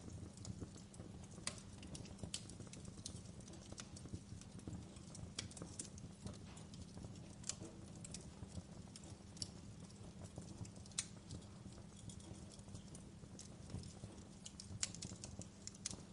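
Fireplace fire crackling: irregular sharp snaps and pops over a low, steady rumble.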